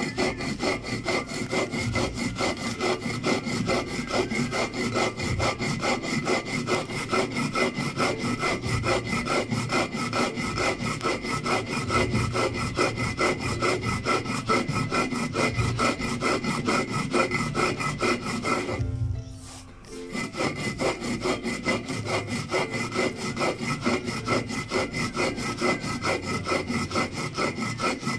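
Stone hand roller (metlapil) scraped back and forth on a stone metate, grinding toasted black corn into pinole flour: a steady rhythmic gritty rubbing, with one brief pause about two-thirds of the way through. This is the third grinding pass, the corn already close to powder.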